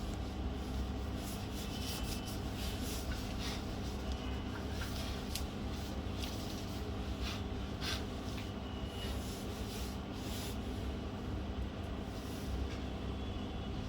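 Steady low hum, with scattered light clicks and ticks of small laptop parts and tools being handled during reassembly.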